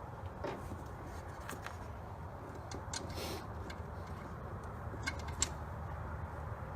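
Faint scattered clicks and light knocks of metal parts and hand tools being handled during work on an engine-to-transmission fitting, over a low steady background hum.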